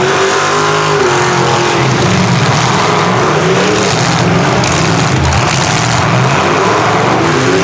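Engines of stock small trucks, vans and SUVs revving loudly in a demolition derby heat, several engines at once rising and falling in pitch.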